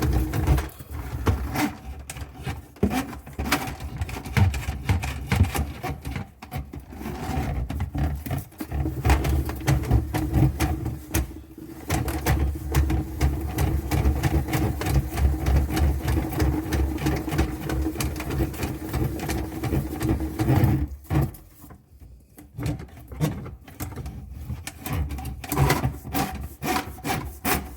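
Small drain snake turning in a sink drain pipe, its cable scraping and rattling against the pipe walls to break up built-up sludge, over a steady hum. It stops suddenly about three quarters of the way through, then lighter, irregular scraping follows.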